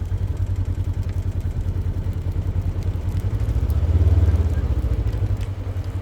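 Small engine of a farm buggy running steadily with a low, pulsing beat, swelling briefly about two-thirds of the way through.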